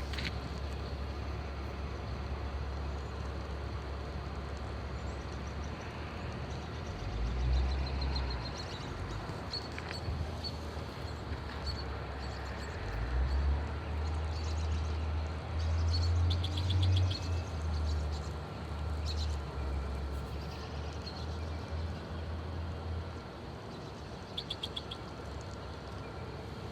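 Low steady rumble of a vehicle idling, with faint bird chirps and twitters now and then.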